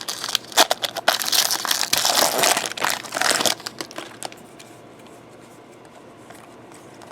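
Trading-card pack wrapper crinkling and tearing in the hands as a pack is opened, dying away about halfway through.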